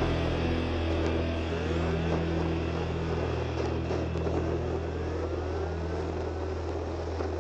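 Motorcycle engine running at a steady pace while riding, picked up by a helmet-mounted camera mic, with road and wind noise. The engine's low tone shifts slightly in the middle.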